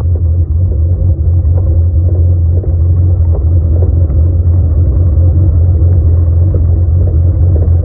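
Dodge 350 diesel truck running with a loud, steady low rumble, with a few faint knocks scattered through it.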